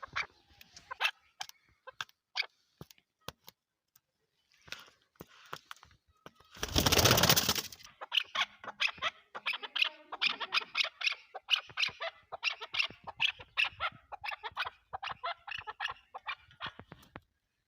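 Chukar partridge calling: a fast run of short repeated clucking notes, about four a second, from about eight seconds in to near the end. Before it come scattered clicks and a loud burst of noise about a second long.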